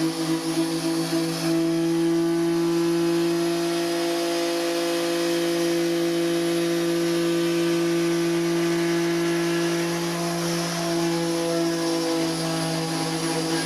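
A machine motor running at a constant speed with a steady, even hum; it wavers slightly for the first second or so, then holds steady.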